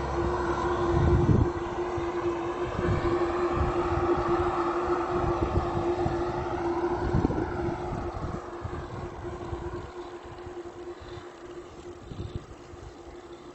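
A motor vehicle that has just gone past drives away, its engine tone holding steady and fading. Wind gusts buffet the microphone.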